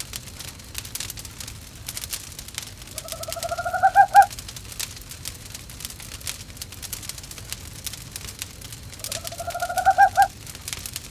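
An owl calls twice, each a quavering call about a second long that rises in pitch and ends in two louder notes. Under it a wood fire crackles with steady small pops.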